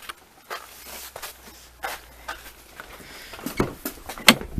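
Scattered footsteps and handling knocks, a few seconds of separate clicks and thumps with a sharper click near the end; no engine running.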